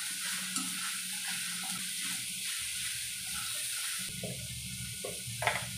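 Sliced kantola (spiny gourd) and onion sizzling in hot oil in a kadhai while a metal spoon stirs them. A steady sizzle, with a couple of short scrapes of the spoon against the pan, the louder one near the end.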